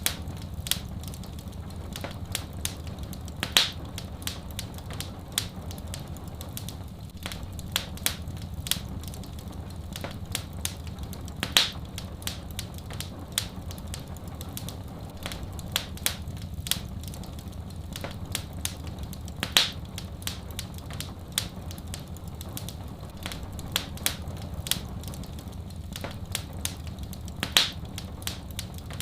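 Wood fire crackling, with frequent sharp snaps and pops over a steady low rumble. The biggest pops come evenly about every eight seconds, as in a looped fire recording.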